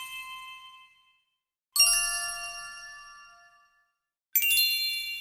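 A metal chime struck twice, about 1.8 s and 4.4 s in, each strike a bright high ring with many overtones that fades away over a second or two, following the fading tail of an earlier strike.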